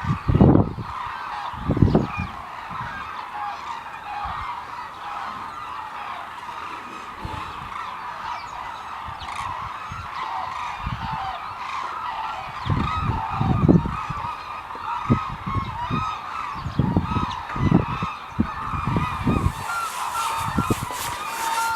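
A large wintering bird flock calling continuously: a dense chorus of many overlapping honking calls. Repeated low rumbles come through now and then, and a hiss rises near the end.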